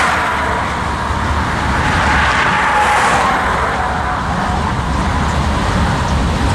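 Freight cars of a manifest train rolling past at speed: a steady rumble and rattle of steel wheels on the rail.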